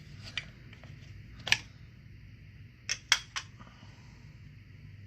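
Sharp clicks and clacks of parts being handled while an old McCulloch chainsaw is opened up to get at its carburetor: a single loud click about a second and a half in, then three quick ones about three seconds in, over a low steady hum.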